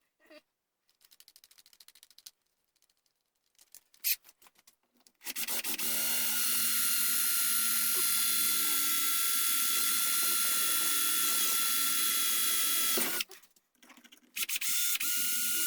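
Small electric power tool, drill-like, running steadily for about eight seconds, stopping, then starting again near the end. Faint light clicks come before it starts.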